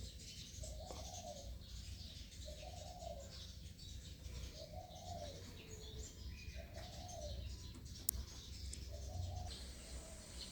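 A bird calling: a short, low call repeated about every two seconds, six times, with fainter high chirping behind it and a low hum underneath.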